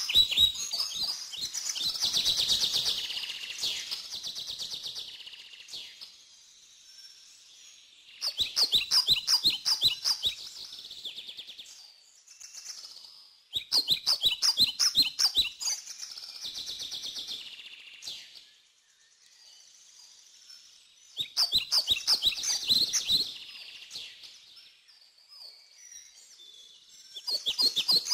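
A bird singing in phrases of rapid, high chirps, each a few seconds long, repeated every six or seven seconds with short pauses between.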